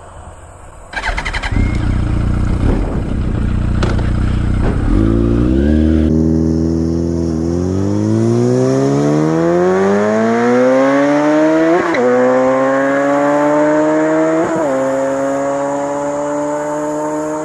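Yamaha R1's 1000cc inline-four, breathing through a Two Brothers exhaust, accelerating hard. The engine note comes in about a second in, then climbs steadily in pitch, with two quick gear shifts near the end.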